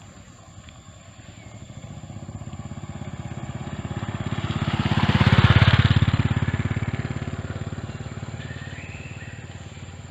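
A motorbike engine passing by: it grows louder to a peak about halfway through, then fades away.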